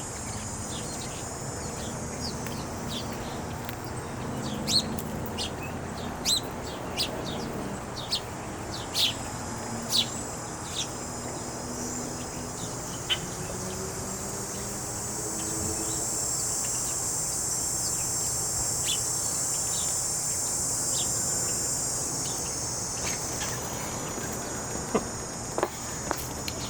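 Small wild birds chirping in short, scattered calls, thicker in the first half. A steady high-pitched buzz runs behind them and grows louder about halfway through.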